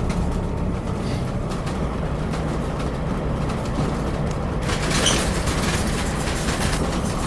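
Semi truck engine running with a steady low rumble, and a short burst of hiss about five seconds in.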